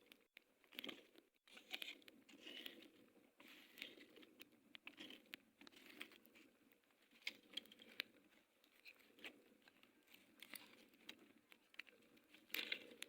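Faint, irregular crackling and rustling with many small clicks.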